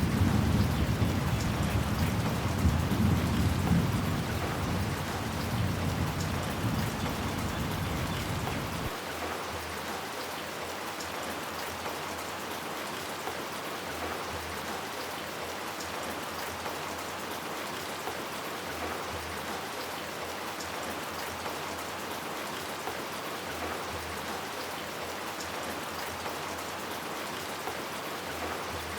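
Steady rain falling and pattering on surfaces, with a low rumble of thunder that dies away over the first several seconds. After that only the even hiss of the rain remains.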